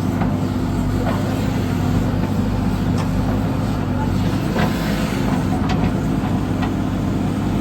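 Diesel tractor engine running steadily with an even low drone, and a few light clicks over it.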